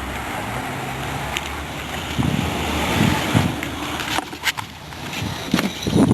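Cold start of a 2003 Jeep Grand Cherokee Laredo: the engine is cranked, catches and runs, with irregular low pulses in the middle and quieter running toward the end.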